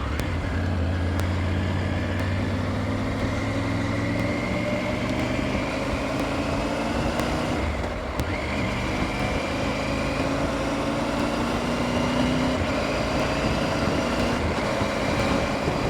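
Triumph Tiger 900 GT Pro's three-cylinder engine pulling on the move, its note climbing steadily with road speed and dropping back at gear changes about eight and twelve seconds in, under a steady rush of wind and road noise.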